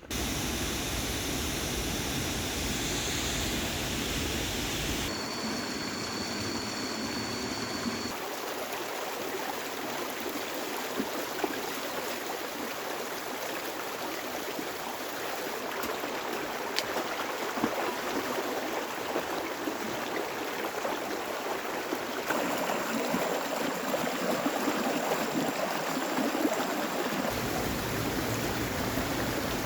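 Steady rushing water, heavy rain or running water, with its character changing abruptly at a few cuts. A thin, high, steady tone sits over it twice.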